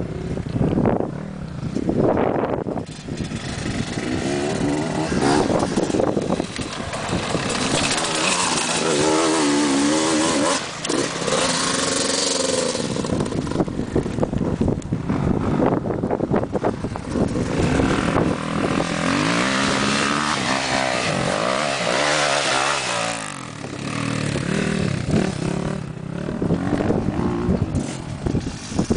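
Motocross motorcycle engines running hard, the pitch repeatedly rising and falling as the throttle is opened and closed.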